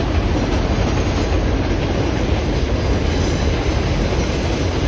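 A New York City subway train passing close by, a loud, steady rumble and rattle of the cars on the rails.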